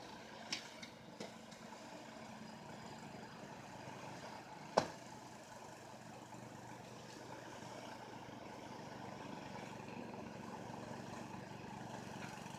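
Truck engine idling steadily, with a few light clicks in the first couple of seconds and one sharp knock about five seconds in.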